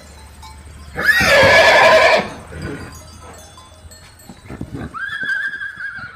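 A horse whinnying: one loud, wavering neigh lasting about a second, then a few scattered knocks, and a thinner, steadier drawn-out call near the end.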